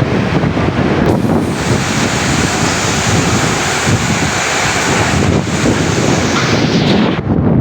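Storm noise: strong wind rumbling and buffeting the microphone, over a steady hiss of heavy rain. The high hiss drops away sharply near the end while the low wind rumble goes on.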